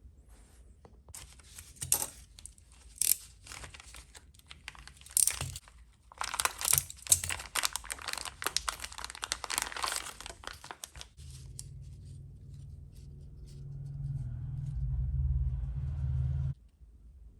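Plastic packaging crinkling and tearing, with small clicks of parts being handled. Later a low steady hum lasts about five seconds, growing louder before it cuts off suddenly.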